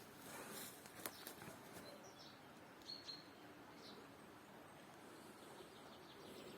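Faint outdoor quiet with a few short, high bird chirps, mostly in the middle, and a single click about a second in.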